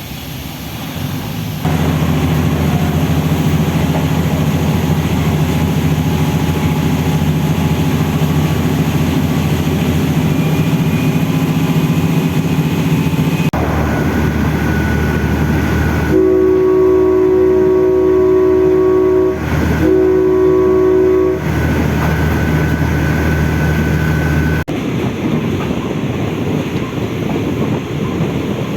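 Train running with a steady low engine drone; past the middle its horn sounds two long blasts, separated by a brief gap. Near the end the engine drone drops away, leaving a rushing noise.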